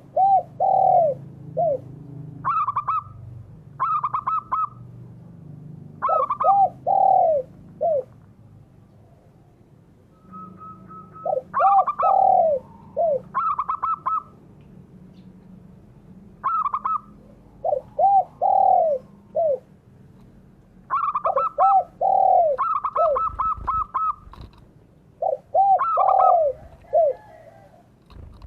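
Derkuku and perkutut (zebra dove) cooing repeatedly, phrases every second or two: deeper arching coos alternating with higher, quick stuttering phrases.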